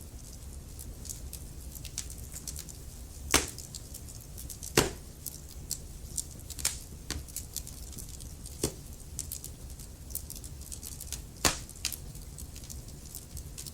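Firewood burning in a fireplace, crackling: a constant scatter of small sharp snaps with about five louder pops, over a low steady rumble.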